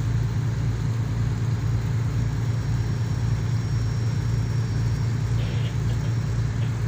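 Tugboat's diesel engine running steadily, a deep even drone.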